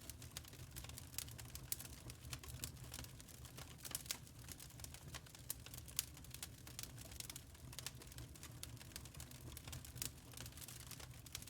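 Wood fire crackling: many irregular sharp pops and snaps over a low steady rumble.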